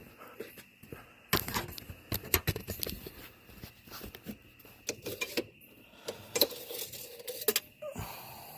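Irregular light clicks, taps and small metallic rattles of hands working under the hood, as the engine oil dipstick is pulled and reinserted to check the level after the oil and filter change.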